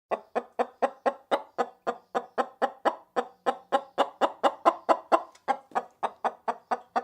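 Chicken clucking: a steady run of short clucks, about four a second.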